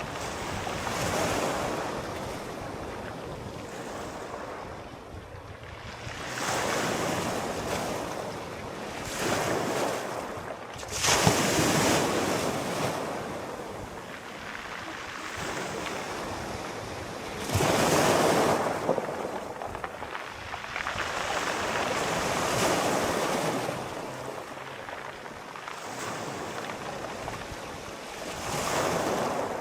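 Sea waves breaking and washing on a shore, one surge of surf every few seconds, the loudest about a third of the way in and again near the middle.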